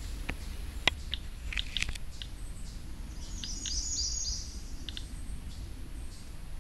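Small birds chirping, with a quick high trill about three and a half seconds in, and a few scattered sharp clicks in the first two seconds over a low steady rumble.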